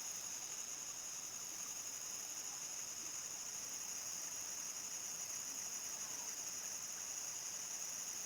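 Countryside crickets trilling at nightfall in a continuous high-pitched chorus.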